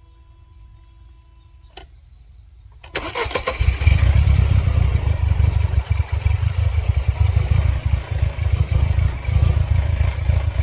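1999 Mercedes-Benz C230 Kompressor's supercharged four-cylinder engine, which has a stalling and check-engine-light fault, being started. A click comes about two seconds in, then the starter cranks for about a second and the engine catches near three seconds in and keeps running loudly.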